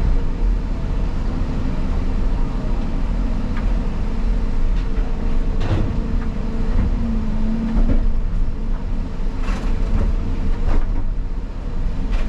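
Caterpillar 323 excavator's diesel engine running steadily, with a brief whine about seven seconds in and a few sharp knocks.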